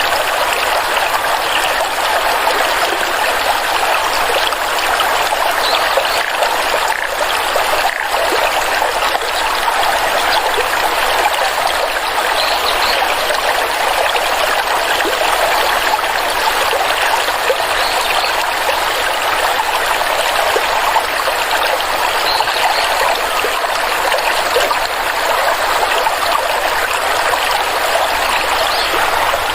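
Stream water flowing and trickling over stones, a steady, unbroken rush.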